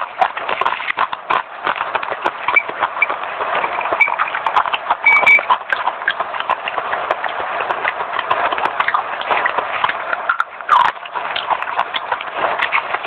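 Fast crunchy chewing close to the microphone: dense, rapid crunches and crackles of something hard and crisp being bitten and ground between the teeth.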